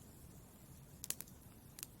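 Wood fire burning in a fireplace: a faint low rumble with a few sharp crackling pops, a cluster about a second in and one more near the end.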